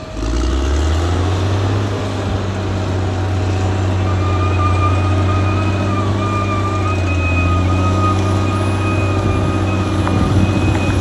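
Caterpillar D6R XL bulldozer's diesel engine rising in speed at the start, then running steadily. From about four seconds in, a steady high whine rides over it.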